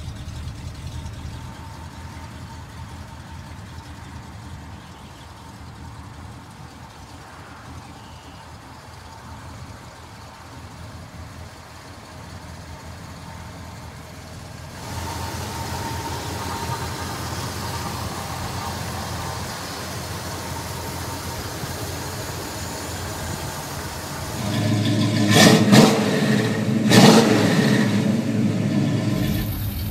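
Classic muscle car engine running steadily, then revved hard twice near the end, the pitch climbing and falling back each time.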